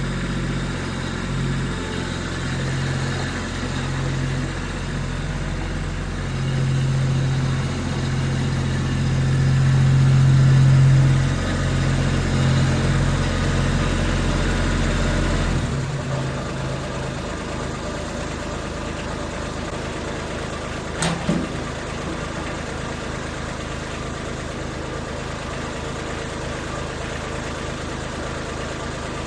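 An engine running at a steady pitch that grows louder around ten seconds in, then cuts off suddenly about sixteen seconds in, leaving a steady lower hum. There is a single sharp click about twenty-one seconds in.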